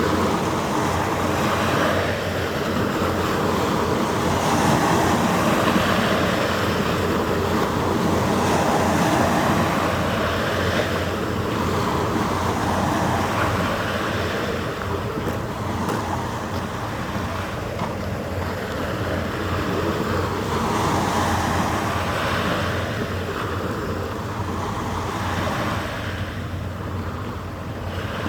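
Harbour water washing and wind, swelling and easing every few seconds over a faint steady hum.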